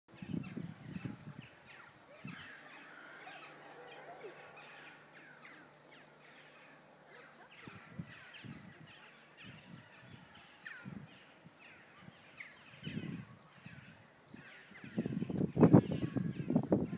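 Birds calling and chirping, with bouts of low rumbling noise at the start and, loudest, near the end.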